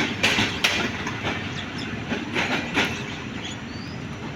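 Passenger train coaches running past close by: a steady rumble of wheels on track, with sharp clacks a few times a second as wheels cross rail joints.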